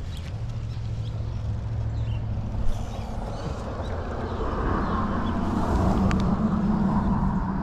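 A low motor hum that shifts up in pitch partway through and grows louder over the last few seconds, with one sharp click a little before three seconds in.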